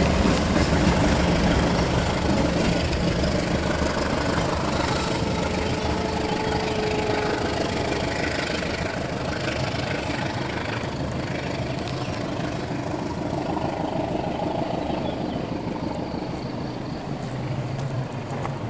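Passenger train running away along the track, its steady wheel-on-rail rumble slowly fading as it recedes.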